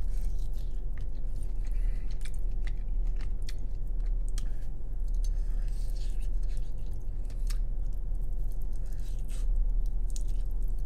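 A man biting and chewing a sauced chicken wing, with short wet clicks and smacks from the mouth scattered throughout. A steady low hum runs underneath.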